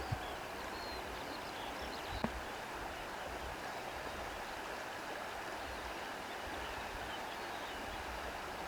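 Steady seaside ambience of lapping water and reeds rustling, an even hiss with no marked wave surges, with a couple of faint knocks in the first few seconds.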